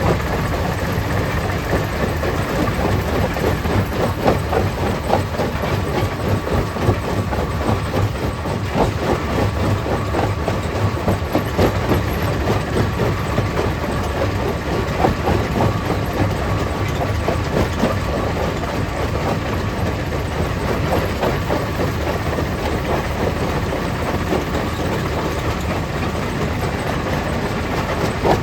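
Stone crusher plant running: a steady heavy machine drone with dense, irregular rattling and knocking of rock, over a faint steady whine.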